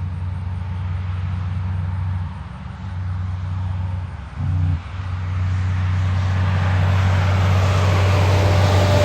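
Road vehicle engine running with a steady low hum. A rising rush of vehicle noise builds over the last few seconds as traffic approaches.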